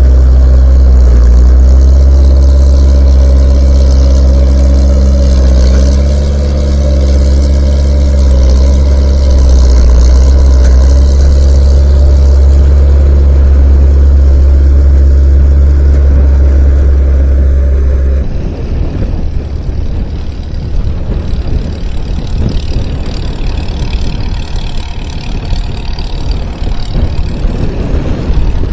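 Skid steer engine running steadily, its pitch dipping and recovering briefly a few times. About two-thirds of the way through, the sound changes suddenly to a rougher, noisier rumble with less of the deep hum.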